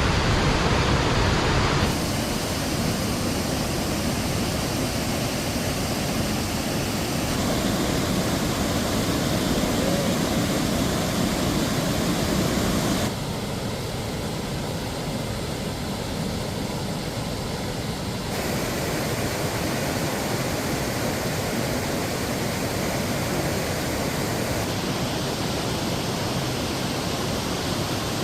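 Rushing water of a rain-swollen mountain stream and its cascades, a steady roar that shifts abruptly in loudness and tone several times as the shots change.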